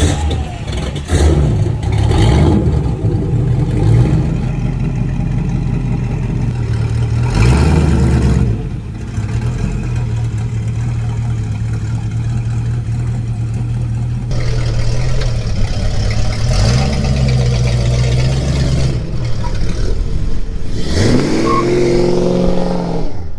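Classic Chevrolet Impala's engine running, revved up and back down several times, then rising steadily in pitch near the end as the car accelerates.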